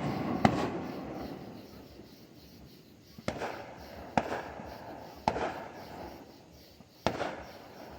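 Fireworks going off: five sharp bangs spaced irregularly a second or more apart, each followed by a fading echo.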